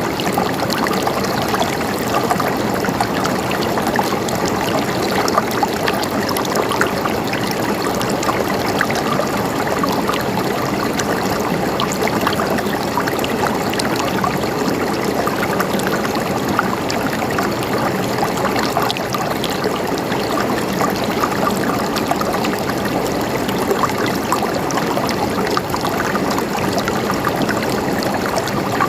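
A shallow river flowing over stones, a steady rushing and splashing with many small splatters of water.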